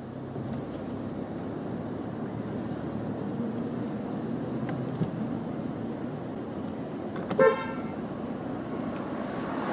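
Steady street traffic noise, with one short car horn toot about three quarters of the way through.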